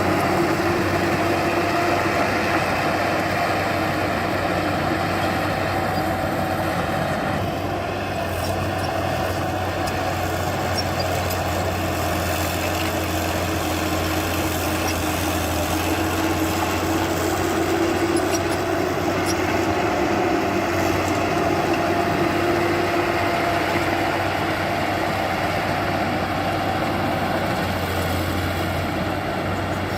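Diesel engine of heavy earthmoving machinery running steadily, its pitch wavering slightly.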